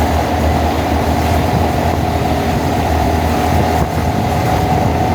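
Honda Monkey motorcycle's small single-cylinder engine running steadily at an unchanging pitch.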